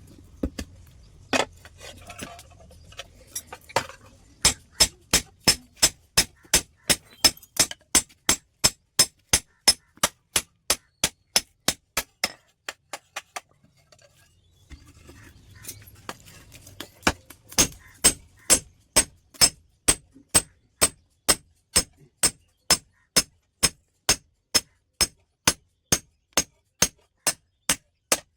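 Steady hammer blows on steel, about two a second, each with a bright metallic ring, as a rusted steel plate is forged into a hoe blade. The hammering stops for about two seconds midway, then starts again.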